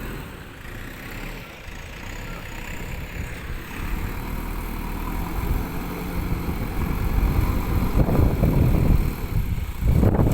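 Diesel engine of a JCB backhoe loader running, growing louder from about four seconds in and rougher and louder in the last two seconds.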